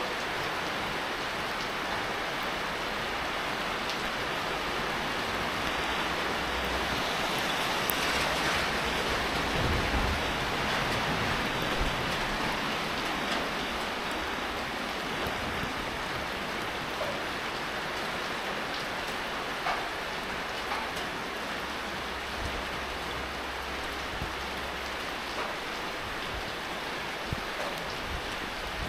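Steady rain falling, an even hiss with occasional individual drops ticking, slightly heavier for a few seconds partway through.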